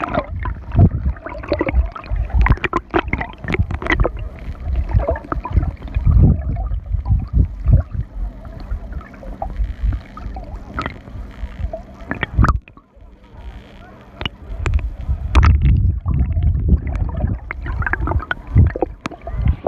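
Sea water splashing and gurgling close to the microphone in irregular, uneven bursts, with a brief quieter lull about two-thirds of the way through.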